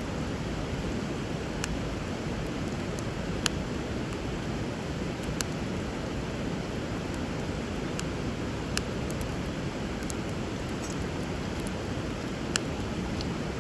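Wood bonfire crackling, with a handful of sharp pops scattered through, over the steady rush of river water flowing underneath.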